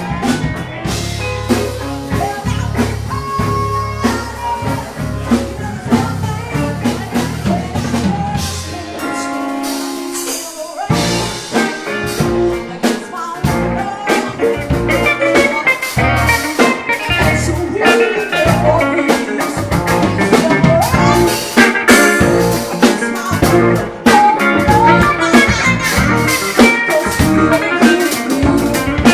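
Live blues band playing: held chords over a low bass for about ten seconds, then after a brief drop the full band with drums and electric guitar comes in on a steady beat.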